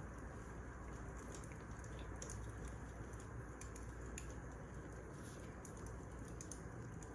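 Wood fire crackling steadily, with a low rumble and many small, irregular pops.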